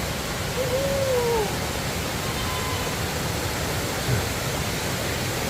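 Steady rushing of a cascading waterfall, an even hiss of falling water. A short bending tone rises and falls about a second in.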